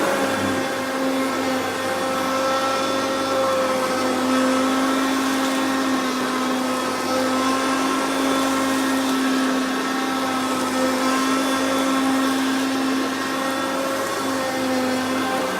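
Hoover Concept vacuum cleaner running steadily on an area rug, a constant motor whine over the rush of air.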